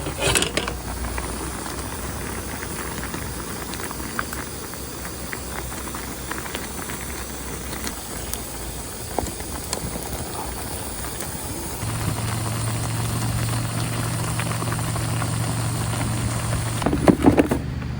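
A pot of water at a rolling boil, bubbling and hissing steadily. A low steady hum joins about two-thirds of the way in, and there is a brief clatter near the end.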